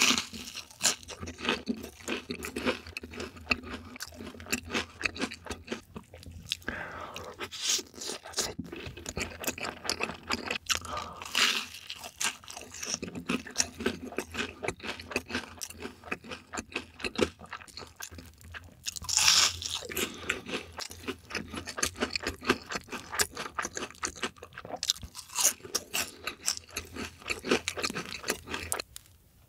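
Close-miked crunching and chewing of crisp, crumb-coated deep-fried food: a run of sharp crunches and wet chews, with one louder stretch of crunching about two-thirds of the way in.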